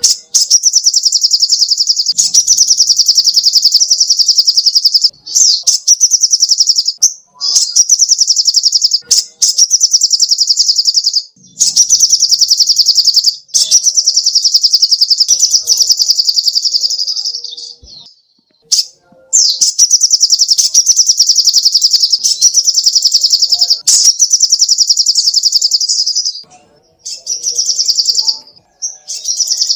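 Little spiderhunter (sogok ontong) singing: long, fast trills of high, evenly repeated notes, in runs of a few seconds broken by short pauses.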